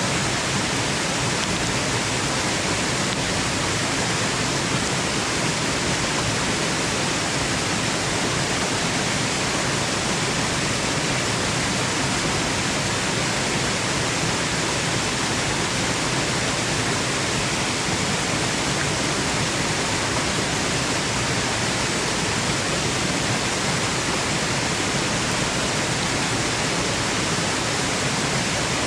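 Steady, unbroken rush of a waterfall, an even hiss with no changes.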